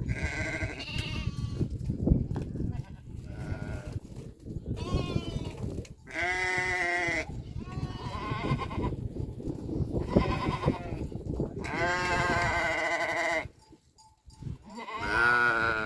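Livestock bleating, about six separate calls with wavering pitch, some held for over a second, over a low rumble.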